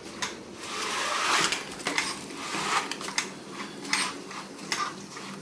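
Steady rain hiss with sharp, irregular ticks of raindrops striking a hard surface, and a whoosh that swells and fades about a second in.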